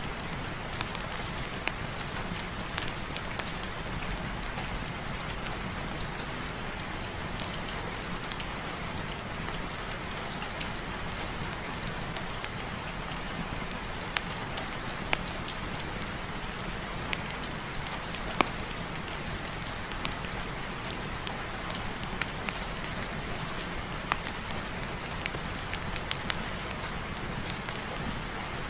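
Steady heavy rain falling, an even hiss dotted with scattered sharp pops and ticks.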